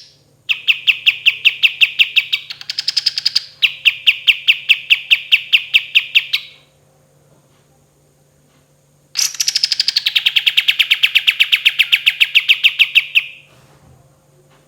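Kapas tembak songbird singing two long rolling trills of rapid repeated notes, about seven a second; the first shifts higher for a moment in its middle, the second starts high and settles lower before fading out.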